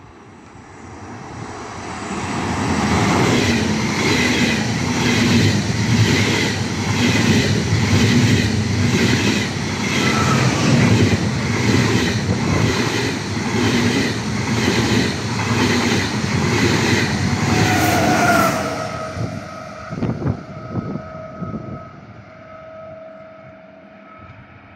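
ÖBB Railjet express passing through a station at speed: a rising rumble as it approaches, then a loud, steady rush of wheels on rail with a regular clatter a little more often than once a second as the coaches go by. The sound drops away suddenly as the last coach passes, leaving a few knocks and a faint steady hum.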